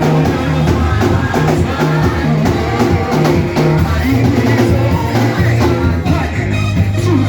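Worship music with a drum kit keeping a steady beat under a stepping bass line, and voices singing.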